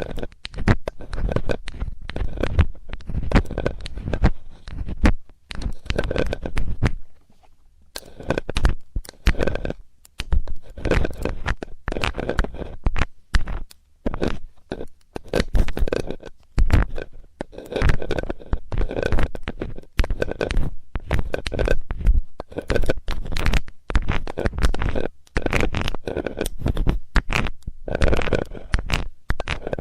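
Metal ear-cleaning tool scraping and rubbing close against a microphone's ear in rapid, dense strokes with a faint metallic ring, pausing briefly twice.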